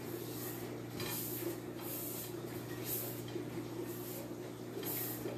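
Paintbrush strokes brushing thick poster paint onto a bowl, soft hissy swishes about once a second over a steady low hum.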